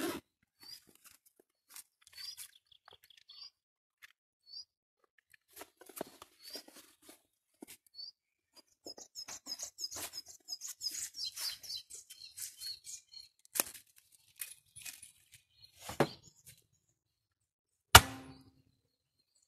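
Scattered crinkling and clicking handling noises, densest in a run of a few seconds past the middle, with a bird chirping now and then. Near the end come sharp knocks, the last and loudest ringing briefly.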